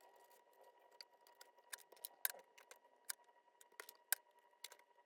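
Faint, irregular clicks and taps of paper craft pieces and small tools being handled on a work surface, about a dozen in all, over a faint steady high-pitched hum.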